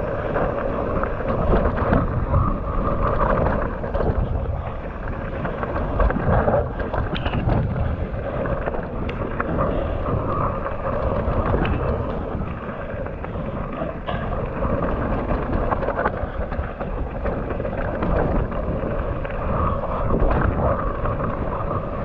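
Wind buffeting a GoPro's microphone while a Commencal Meta AM 29 mountain bike descends a wet trail. There is a steady rumble of tyres and frame with many small rattling knocks over bumps.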